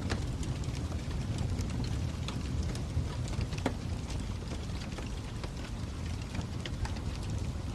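Fire crackling: a steady low rumble with scattered sharp pops and snaps, one louder pop about three and a half seconds in.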